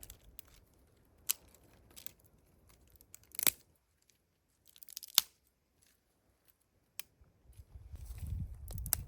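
Scattered sharp clicks and rustles of things being handled, a second or more apart, with quiet gaps between them and a low rustling rumble near the end.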